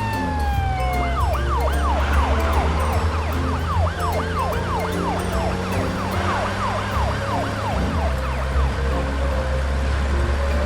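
Cartoon emergency-vehicle siren sound effect: after a falling tone, a quick rising-and-falling yelp repeats over and over from about a second in, over background music with a steady bass line.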